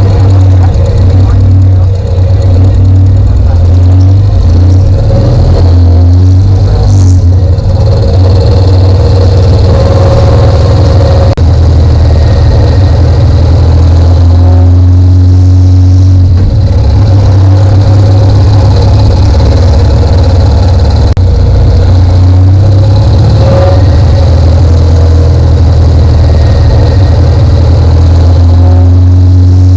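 Motorcycle engine running with a loud, steady low rumble, its pitch shifting now and then.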